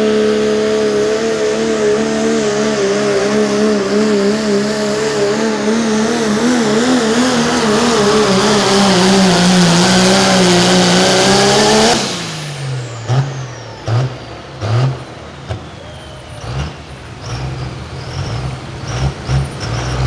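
Diesel pulling truck engine running flat out under load while dragging the sled, its pitch wavering, sagging, then climbing again. It cuts off abruptly about twelve seconds in, leaving a low rumble broken by short, sharp bursts.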